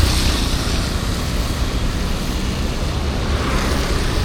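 Steady street traffic noise, a constant roar of engines and tyres with a strong low rumble.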